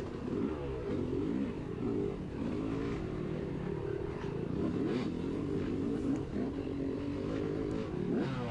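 250cc dirt bike engine revving up and down again and again as the rider works the throttle along a trail, with a couple of brief knocks of the bike over rough ground.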